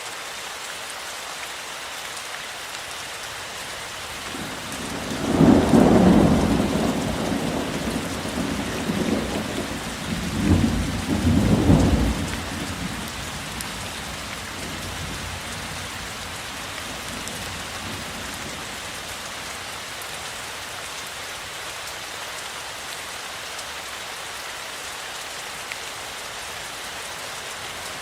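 Steady rain with a roll of thunder that builds about five seconds in, rumbles with several swells, and fades out by about thirteen seconds, leaving the rain alone.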